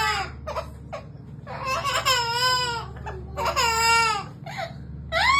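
Pet bird making a series of long, wavering, wailing calls that sound like a baby crying, about four in all, each lasting about a second, over a steady low hum.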